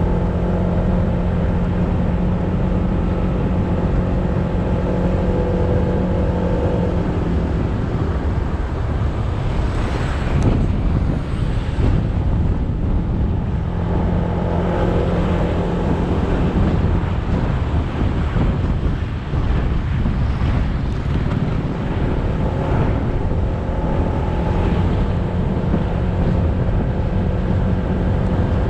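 Motorbike engine running while riding, heard with wind and road noise on the camera microphone. The steady engine note fades into a rushing wind and road noise about eight seconds in and again past the middle, then comes back.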